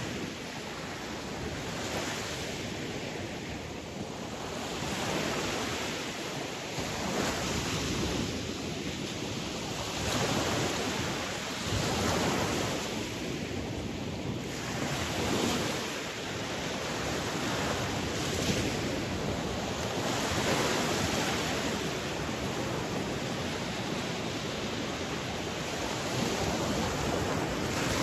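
Sea waves breaking and washing on a shore, a continuous surf that swells and falls back every few seconds.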